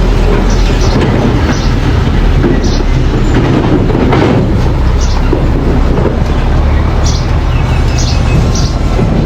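Mini bulldozer running steadily with a loud, constant engine drone, and short high-pitched squeaks from its steel tracks recurring about every second.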